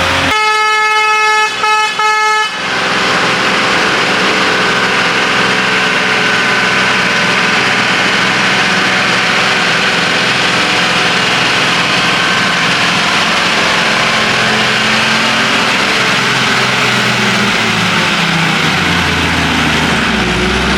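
A horn blares for about two seconds near the start, broken twice into short toots. It is followed by a heavy lorry's engine running hard and steady as it climbs a ghat road hairpin in first gear.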